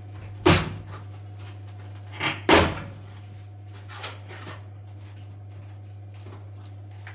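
Two sharp knocks about two seconds apart, the second one double, over a steady low hum, with a fainter tap a little later.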